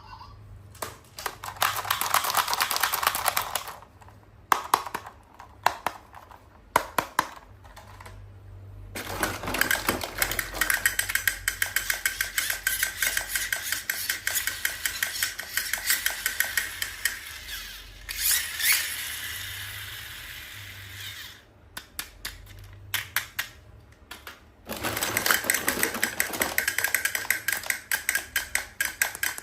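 Toys and their packaging being handled close to the microphone: spells of rapid, crackly clicking, with a few separate sharp knocks in the quieter gaps between.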